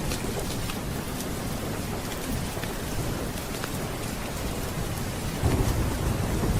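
Steady rain with scattered sharp ticks, and a low rumble of thunder swelling up about five seconds in.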